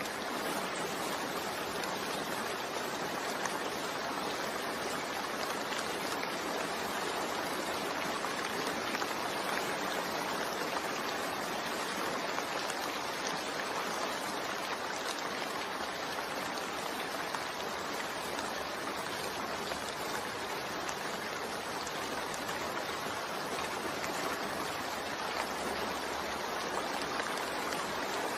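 Steady rain falling, an even hiss without breaks or changes.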